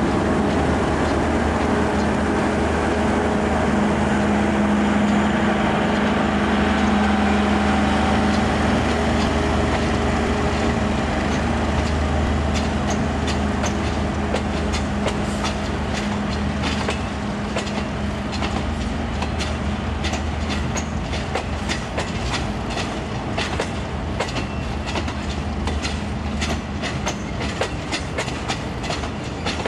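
MKA diesel locomotive passing with a passenger train, its steady engine drone fading away over the first half. Then the coaches' wheels clickety-clack over the rail joints, the clicks coming thicker toward the end.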